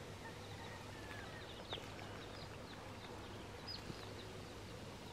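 Faint, scattered chirps from small birds: a few short, high, falling notes over a steady low hum.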